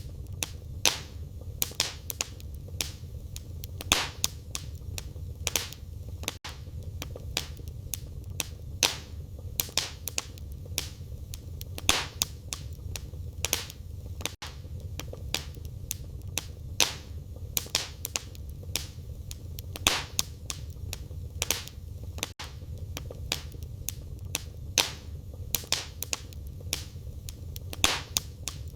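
Wood fire in a fireplace crackling: a steady low rumble of the flames with frequent sharp pops and snaps from the burning firewood, the louder pops coming every second or two. The same pattern repeats about every eight seconds.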